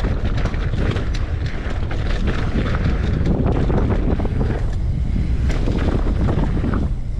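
Wind buffeting the microphone on a mountain bike descending a dirt trail, a steady loud rumble, with scattered clicks and rattles from the bike over the jumps.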